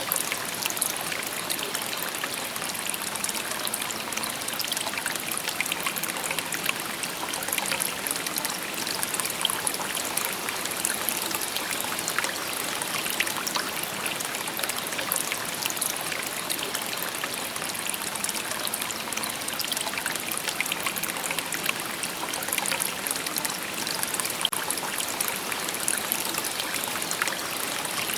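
A shallow river babbling over stones: a steady rushing and trickling of water, with many small splashes and gurgles and no pauses.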